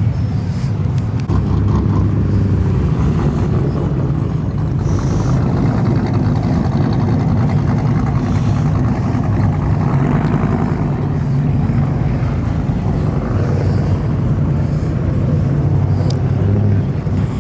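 Vehicle engine running steadily, a loud, even low-pitched sound with no clear revving.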